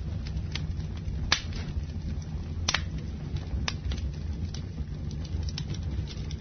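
Campfire burning: a steady low rumble under scattered sharp crackles and pops of burning wood. The loudest pops come about a second in and again near three seconds in.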